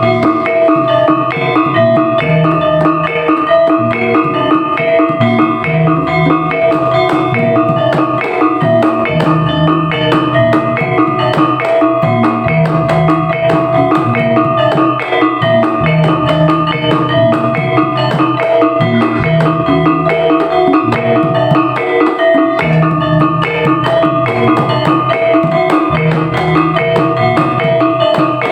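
Topeng Ireng dance accompaniment: drums beating a repeating pattern under steadily repeated ringing metallic tuned percussion.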